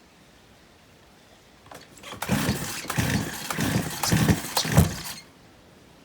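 Stihl 028 AV Super chainsaw cranked on its pull-start, turning over in about five pulses without catching. The saw will not start even with starting fluid.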